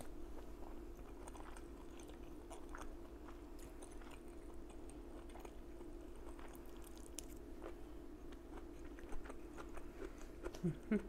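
Close-miked chewing and crunching of stir-fried broccoli and beef: soft, scattered crunchy mouth sounds over a faint steady hum.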